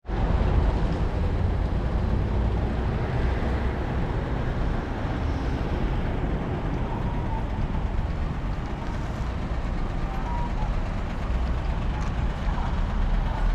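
Steady low rumble of a moving vehicle running at an even pace, with no clear events.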